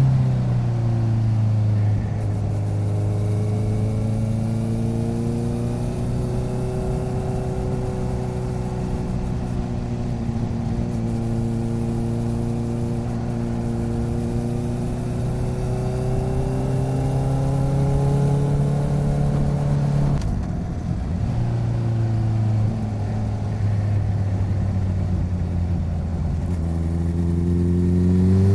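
Motorcycle engine running under way, picked up by a recorder mounted on the side of the bike. The engine pitch settles lower in the first couple of seconds, then rises slowly. About 20 seconds in there is a brief break and the engine comes back at a lower pitch, as at a gear change, and the revs climb again near the end.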